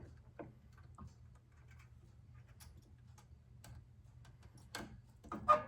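Faint, scattered small metal clicks and ticks as a throttle-linkage spring is worked onto a small-engine carburetor, with a sharper click near the end.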